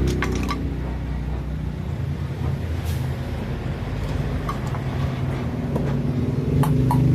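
Exhaust fan motor running with a steady low hum, with a few light clicks near the start, about three seconds in, and again near the end.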